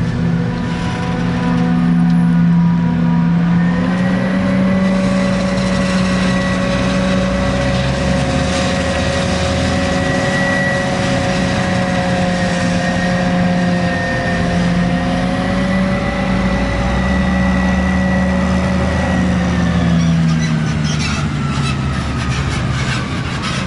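Heavy forage-harvesting machinery running: diesel engines with a steady whine over a deep hum. Near the end the whine drops in pitch.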